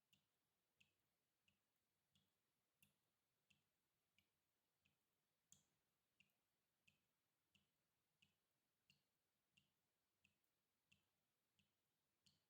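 Faint water drops dripping in a steady, even rhythm, about three drops every two seconds, each a short plink. One drop about five and a half seconds in is louder than the rest.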